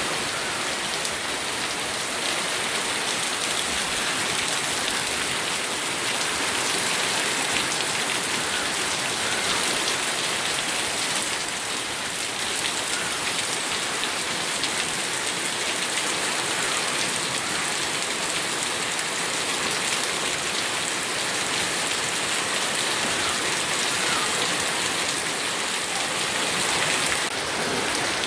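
Steady rain with a constant, dense hiss of drops falling on surfaces.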